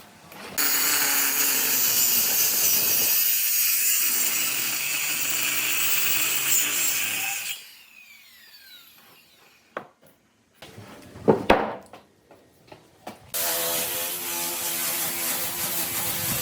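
Power tool running on wood, then switched off about seven seconds in and winding down with a falling whine. A few knocks follow, and then the tool starts up again about three seconds before the end.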